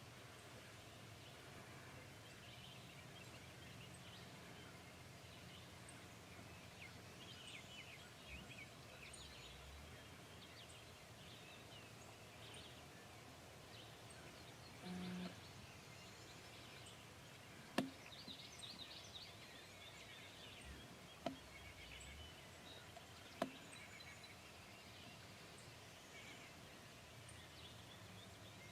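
Faint birds chirping over a low steady background hiss, with three sharp clicks in the second half and a brief low hum about halfway through.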